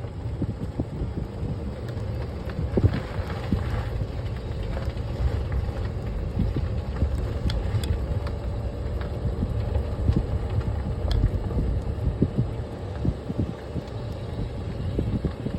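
A vehicle driving, with a steady low road and engine rumble and wind buffeting the microphone.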